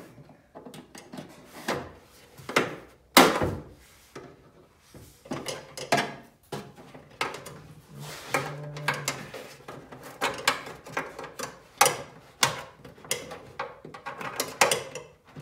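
Screwdriver working at the C-clip that holds a Subaru Impreza trunk lock cylinder in the trunk lid: irregular metal clicks, scrapes and knocks, the loudest a sharp knock about three seconds in.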